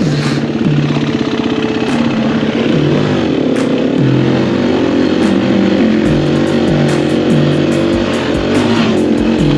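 Enduro dirt bike engine revving up and down as the rider works the throttle, mixed with background music that has a bass line and a steady beat.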